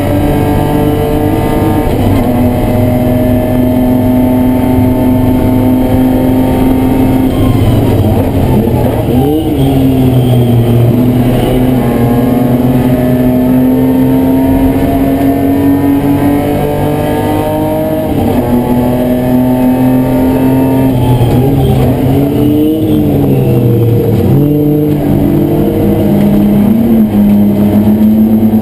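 BMW E30 race car's engine heard from inside the stripped cabin, held hard on long pulls with its pitch climbing slowly. A few times it drops sharply and wavers through quick blips as the car brakes and changes gear for corners.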